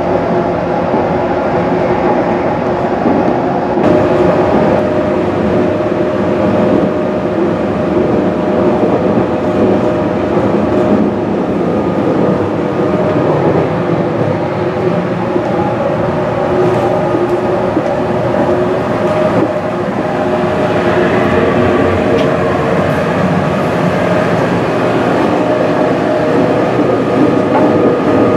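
JR East 215 series double-deck electric multiple unit running along the line, heard from inside a passenger car: a steady rumble of wheels on rail with a steady whine from the motors and gears. A further steady tone joins about four seconds in.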